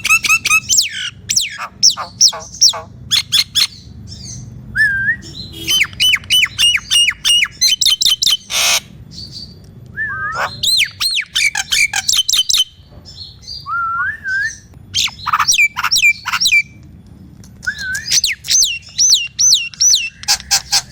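Nias hill myna calling loudly in full song: rapid runs of sharp repeated notes, looping whistles, and one harsh squawk about nine seconds in.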